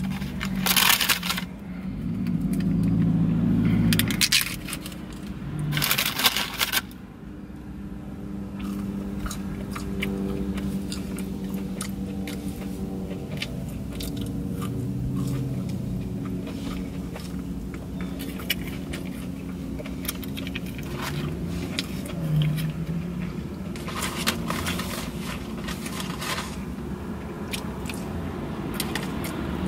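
Close-up crunching and chewing of breaded fried chicken fries, with loud crispy bites in the first several seconds, then quieter chewing and small clicks. A steady low hum runs underneath.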